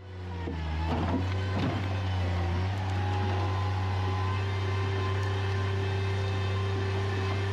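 Bobcat MT100 mini track loader's engine running steadily under load with a deep low hum, building up over the first second, with some scraping and changes in pitch about one to two seconds in.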